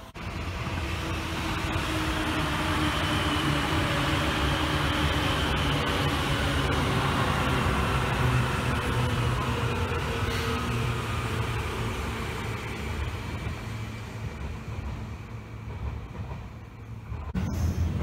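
Seibu N2000-series electric train running past: a steady rumble of wheels and running gear with faint falling tones. The sound dies away a few seconds before the end.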